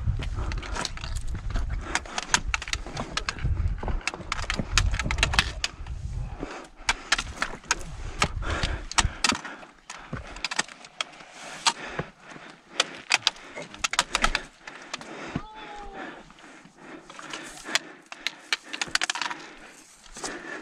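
Footsteps crunching and clattering on loose scree rock: a run of irregular clicks and knocks from stones shifting underfoot. A low rumble runs under them for the first six seconds or so, then drops away.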